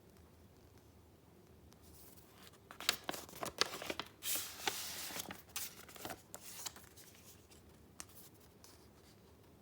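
Paper and card handled close up: after a quiet start, about four seconds of rustling with sharp crackles and one longer sliding or tearing stretch in the middle, then quiet again.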